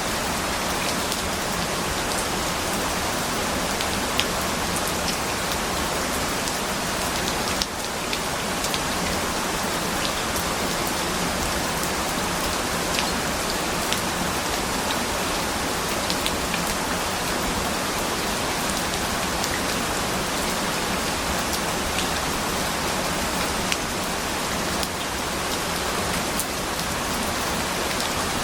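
Steady rain falling: a dense, even hiss with scattered sharper drop ticks and a brief dip in level about eight seconds in.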